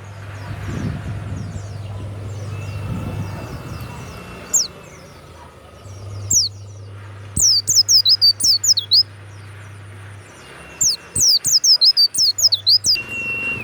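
A pleci (white-eye) singing loudly in quick runs of rapid, high-pitched, falling notes, with the longest runs in the middle and near the end. A low steady hum runs underneath.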